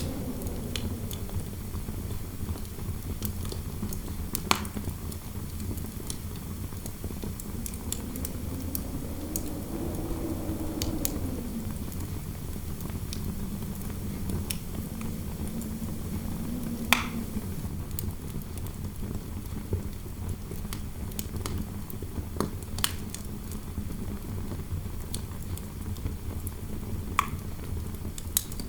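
Fireplace fire crackling with scattered sharp pops, the loudest at a few irregular moments. Under it runs a steady low rumble of interior wind, with a faint howl that slowly rises and falls in pitch.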